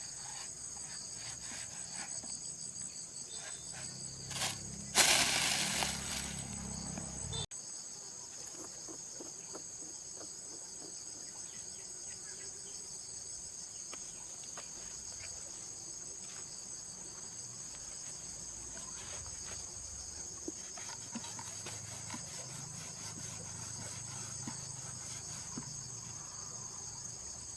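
Insects chirring steadily in high-pitched bands, with faint scattered clicks and knocks. About five seconds in, a loud rushing noise lasts about two seconds and then cuts off abruptly.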